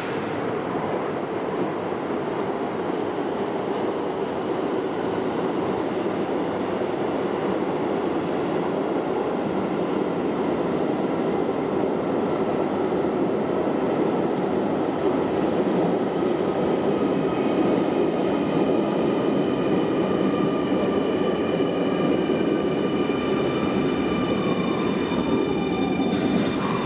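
Keio electric commuter train running through an underground station: a steady rumble of wheels on rail, with a whine of several high tones coming in about two-thirds of the way through and one tone falling in pitch near the end.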